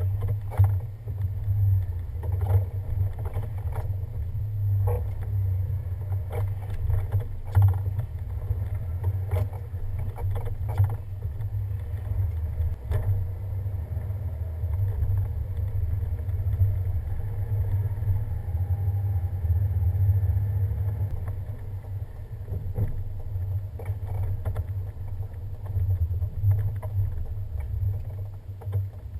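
Vehicle driving over a snow-covered winter road: a steady low rumble with scattered knocks and clicks.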